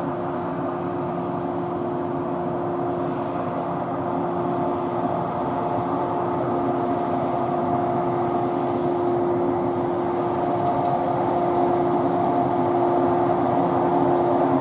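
Shinano Railway 115 series electric train moving out of service into the depot: a steady hum at an unchanging pitch that grows gradually louder.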